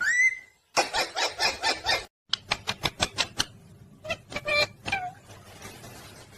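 Pet parrot chattering: a short rising call, a quick run of syllables, then a fast series of short clicky calls and a few more squawks.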